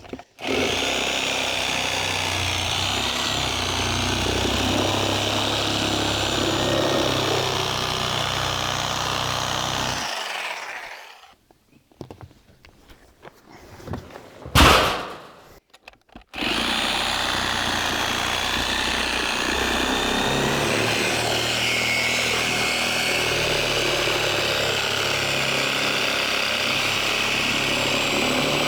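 A power cutting tool runs steadily as it cuts through the tread of an old rubber tractor tire to split it off its rim. About ten seconds in it winds down with a falling pitch and stops. After a brief loud burst near fifteen seconds, it runs steadily again from about sixteen seconds on.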